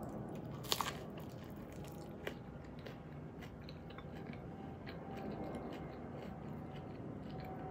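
A person biting into a crunchy taco shell topped with guacamole, with one sharp crunch a little under a second in, then chewing with small crackles.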